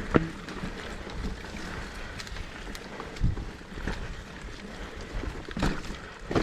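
Mountain bike rolling down a dirt trail: steady tyre rumble with wind buffeting the microphone, broken by a few sharp knocks from the bike over bumps. The sharpest knock comes just after the start, with others a few seconds in and near the end.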